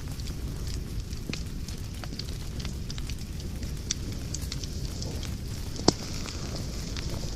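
Wood fire in a fireplace crackling, with scattered small crackles over a steady low rumble of burning. One sharp, loud pop about six seconds in.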